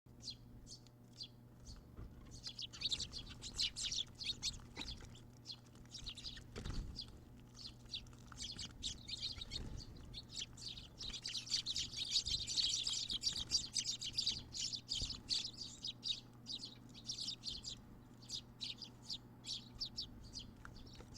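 Brown-eared bulbuls chirping: quick series of short, high calls, densest in a stretch a little past the middle.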